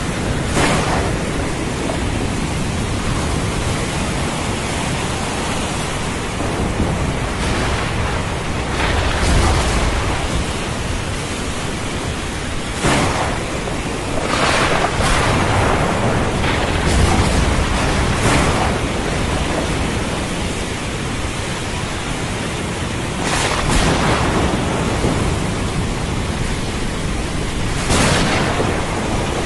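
Thunderstorm: steady rain hiss with low rolls of thunder and several sudden sharp surges spread through.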